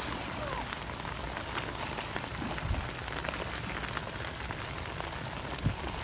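Heavy rain falling steadily, a dense patter of drops, with a couple of low thumps, the louder one near the end.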